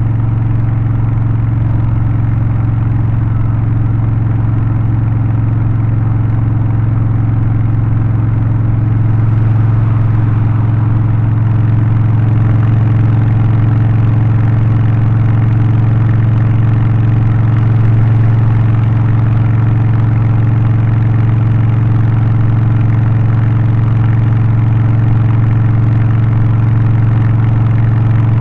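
Harley-Davidson Low Rider ST's Milwaukee-Eight 117 V-twin with a Stage 1 tune (aftermarket exhaust, intake and remap) running steadily at an even engine speed, its pitch hardly changing, a little louder about nine seconds in.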